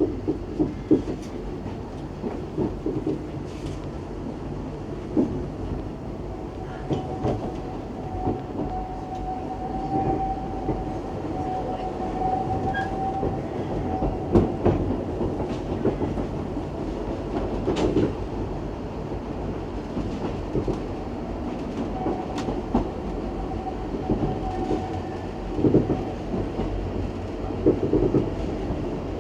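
Narrow-gauge steam train running along the track, wheels clattering irregularly over the rail joints under a steady rumble. A faint, high, steady squeal comes in twice, once before the middle and once later.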